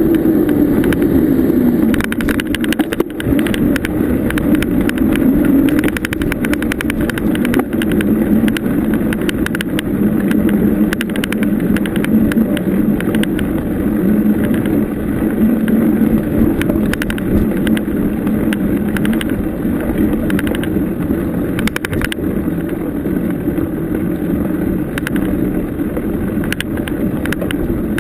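Bicycle rolling over a bumpy trail: a steady rumble with frequent small rattles and knocks from the bike.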